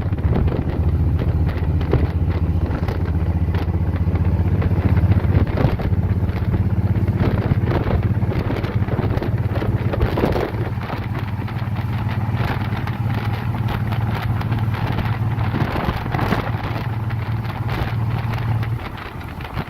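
Motorcycle engine running steadily at cruising speed while riding, with wind buffeting the microphone. The engine note eases near the end.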